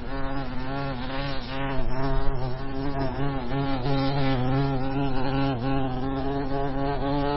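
Flying insect buzzing steadily, a continuous wing hum that wavers slightly in pitch.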